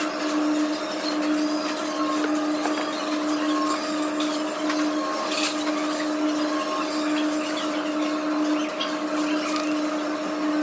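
A steady mechanical hum: one constant tone over an even hiss, like a motor or fan running without change.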